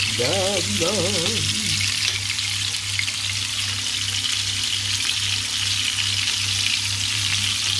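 Onions sizzling steadily in hot oil in a frying pan.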